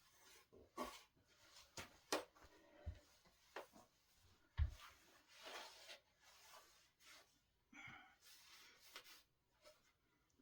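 Mostly quiet, with scattered knocks, clicks and rustling from handling the parts of a solid-wood dining table during assembly; a dull thump about four and a half seconds in is the loudest.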